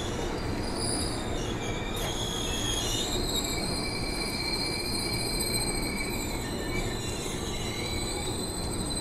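Electric commuter train (KRL Commuter Line multiple unit) rolling slowly past the platform: a steady rumble of wheels on the rails with several high metallic squealing tones, strongest from about three seconds in.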